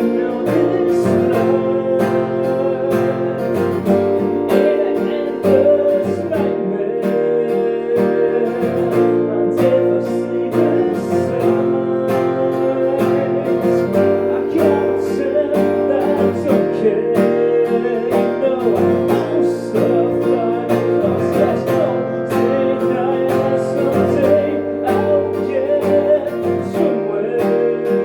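Acoustic guitar played live, strummed steadily with ringing chords throughout.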